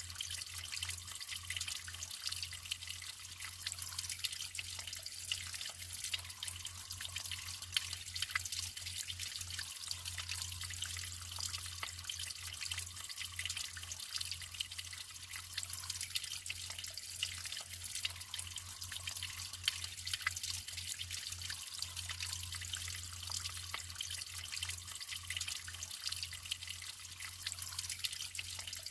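Natural running water trickling and dripping steadily, with many small splashes.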